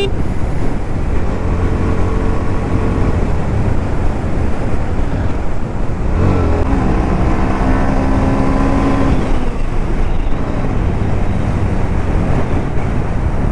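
Motorcycle riding along a road: a steady rush of engine and road noise. For a few seconds around the middle, a steady engine tone stands out.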